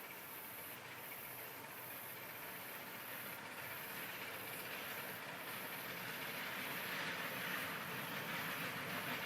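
A 12-inch gauge steam locomotive approaching with a hiss of steam, its sound building steadily louder.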